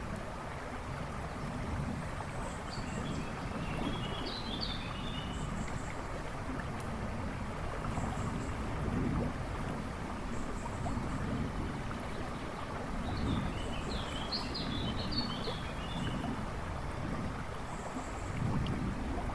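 A river rushing and babbling steadily. A songbird sings two short warbling phrases, one about four seconds in and one about two-thirds of the way through, with faint high chirps from other birds in between.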